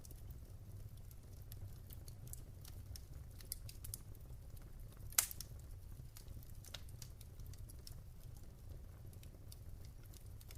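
Wood fire burning in a fireplace: scattered small crackles over a steady low rumble, with one louder pop about five seconds in.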